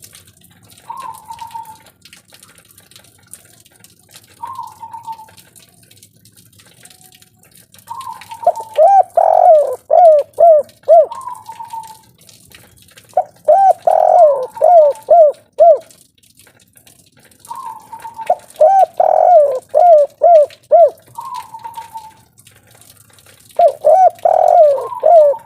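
Spotted dove (tekukur, a 'kuk 3' singer) cooing. Short single coos come every few seconds at first. From about eight seconds in there are four louder bouts, each a quick run of five or six arching coo notes.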